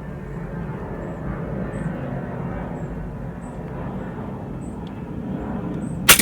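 A pre-charged pneumatic air rifle fires a single shot near the end, one sharp crack, over a steady low rumble.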